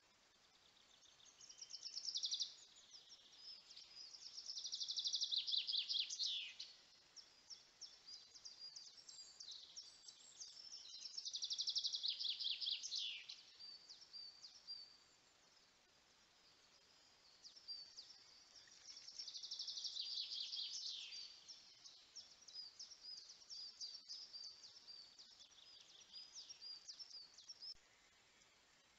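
Wild birds singing in woodland: four rapid trilled phrases of about two seconds each, several falling in pitch at the end, with short high calls between them.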